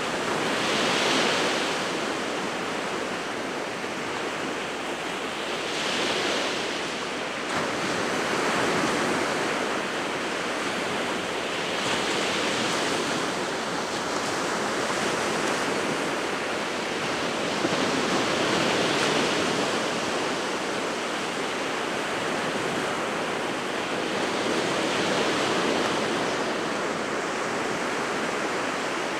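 Sea waves breaking on the shore, a steady rushing wash that swells with each breaker about every six seconds.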